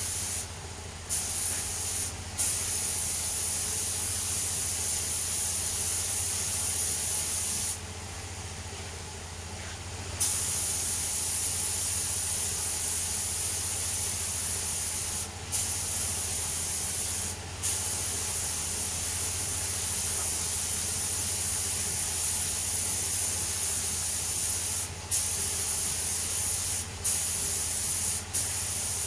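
Spray hissing in long bursts, broken by brief pauses and one longer pause of about two seconds, over a steady low hum.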